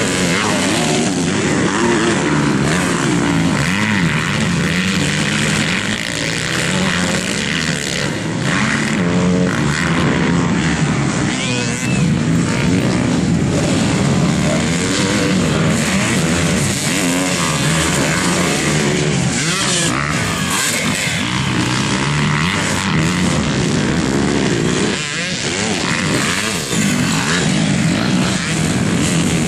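Several motocross bikes racing at once, their engines revving up and down continuously as riders work the throttle around the track.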